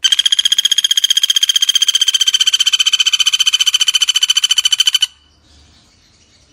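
Pelatuk bawang (common flameback woodpecker) giving its call: a loud, rapid, even rattle of short notes at one steady high pitch, lasting about five seconds and cutting off abruptly, followed by faint chirps.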